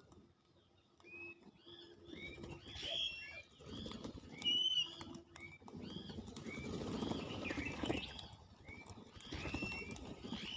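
Birds calling with a rapid run of short, arched chirps repeated throughout. A low rumbling noise swells underneath in the middle.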